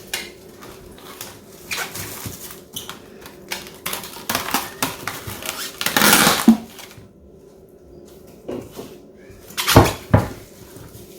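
Kitchen handling noises: a bowl and dishes being moved and set down, with irregular knocks and rustles and a few louder clunks about six and ten seconds in.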